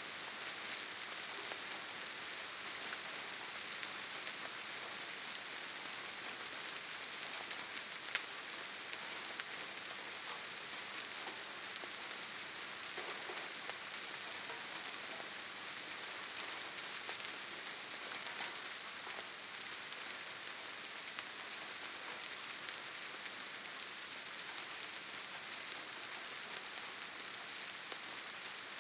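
Steady rain falling, an even hiss with scattered ticks of single drops striking, one a little sharper about eight seconds in.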